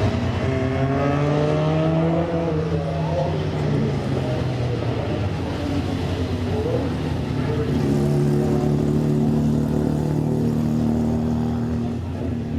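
Vintage race car engines running. One revs up over about two seconds and then drops back, and later an engine holds a steady pitch for several seconds.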